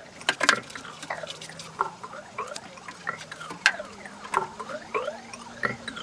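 Fast-forwarded work sounds from putting a VW Beetle sunroof back together: a rapid jumble of clicks and taps with quick chirpy squeaks that slide up and down in pitch, all sped up and pitched high.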